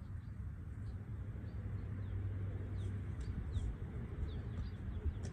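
Small birds chirping faintly, many short high chirps scattered throughout, over a steady low outdoor rumble.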